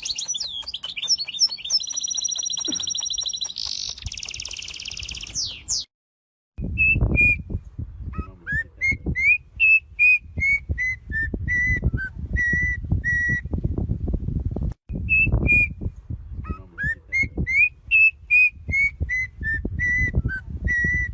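A bird whistles a short tune of clear, gliding notes, and sings it through twice over a low rumble. Before that, in roughly the first six seconds, comes rapid, high trilling bird chatter, which then cuts off.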